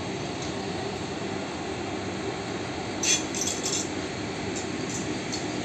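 Vande Bharat Express electric train set pulling out and running away, a steady low rumble. A quick run of sharp metallic clicks comes a little past halfway.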